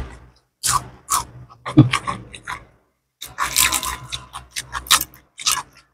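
Close-up mouth sounds of chewing and crunching a crispy deep-fried gourami fin, in irregular short bursts with brief pauses.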